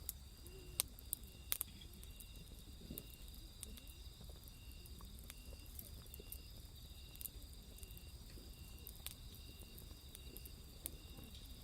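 Wood fire crackling in a small grill, with scattered sharp pops, the loudest about a second and a second and a half in. Under it, night insects chirp steadily, one with a short repeating chirp.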